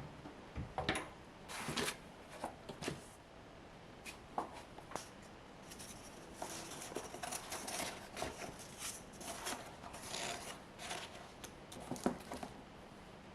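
Light handling noises: scattered rustles, soft clicks and scrapes of things being picked up and moved, with a sharper click about twelve seconds in.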